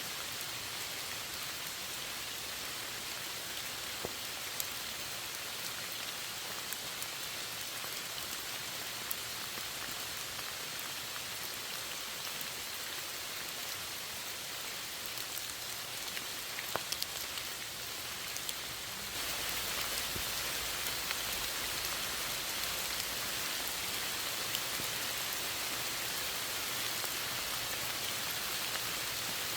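Steady rainfall with scattered individual drops ticking. About two-thirds of the way in it becomes slightly louder and fuller.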